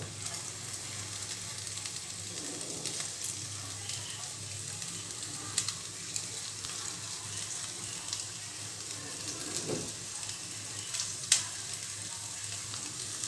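Chopped onion, capsicum and garlic frying steadily in melted butter in a wok, a low even sizzle, as boiled spinach noodles are lowered into the pan. Two faint clicks, about five and eleven seconds in.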